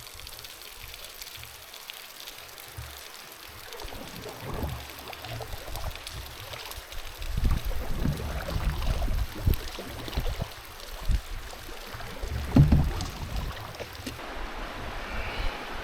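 River water moving and splashing around a canoe, with wind buffeting the microphone in uneven low rumbles that get louder about halfway through, plus a few sharper knocks and splashes.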